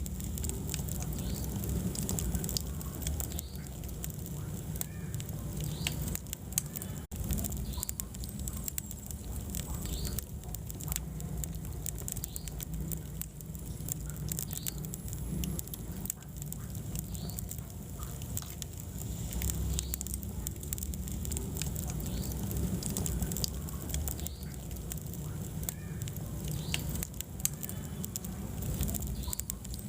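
Wood fire burning in a fireplace: many small irregular crackles and pops over a steady low rumble of flames. There is a split-second dropout about seven seconds in.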